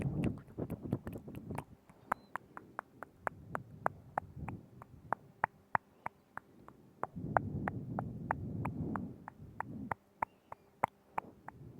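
Close-miked ASMR mouth sounds: a steady run of wet clicks and smacks, a few each second, with a low rumbling stretch of mouth noise between about seven and ten seconds in.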